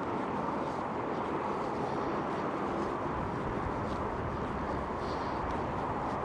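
Steady hum of distant road traffic, with no single vehicle standing out.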